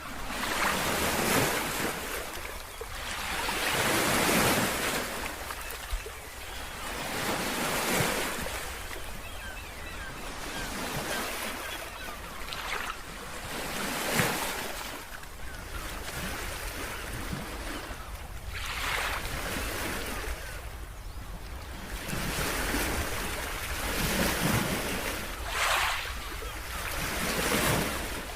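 Sea waves breaking and washing in, swelling and falling away every few seconds.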